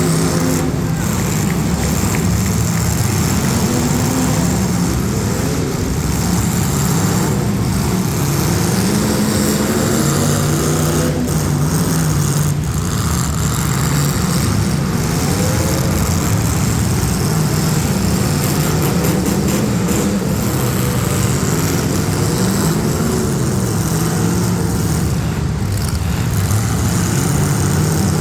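Several demolition derby street stock car engines revving at once, their pitch rising and falling constantly, with a few sharp bangs of impacts.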